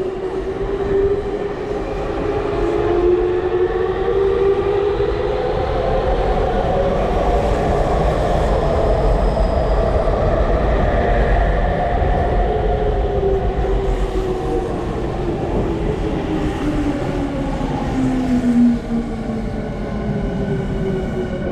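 Electric commuter train running through the station, its traction motors giving a whine that rises in pitch over the first half and falls over the second half, over a steady rumble of wheels on rails.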